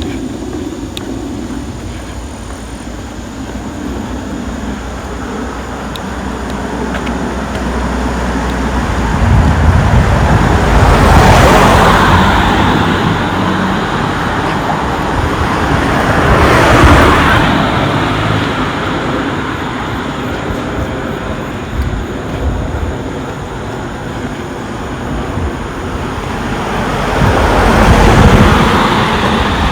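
Road traffic: cars pass close by one after another over a steady traffic hum. The three loudest pass about a third of the way in, just past halfway, and near the end.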